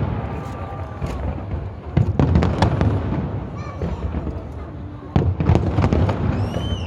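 Aerial fireworks exploding: deep booms and bursts of rapid crackling, in clusters about two seconds in and again from about five seconds in.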